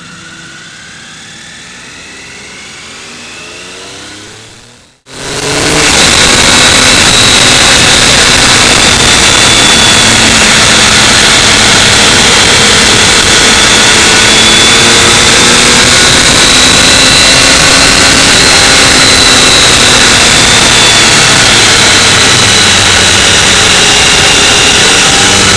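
A song fades out, then about five seconds in the loud sound of a motorcycle ride cuts in: the engine running under a steady rushing noise, its pitch rising and falling a little.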